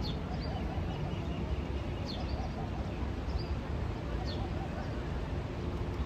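A bird giving short, high, falling chirps every second or so over a steady low rumble of wind on the microphone.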